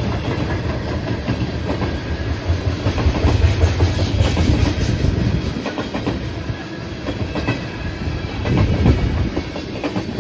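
Train passing, its wheels clacking rapidly over rail joints above a steady low rumble.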